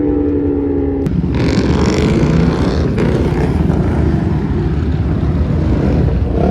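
A car engine running loud: a steady, slowly sinking engine tone gives way suddenly about a second in to a rough, heavy engine sound, with a brief hiss over it just after the change.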